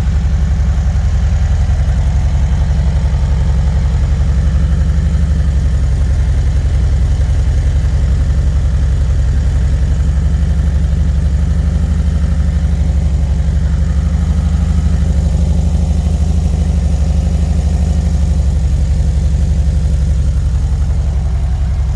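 VW Vanagon's flat-four engine idling steadily through a new Magnaflow sport muffler exhaust, heard from outside the van. It is a deep, even exhaust note with no revving.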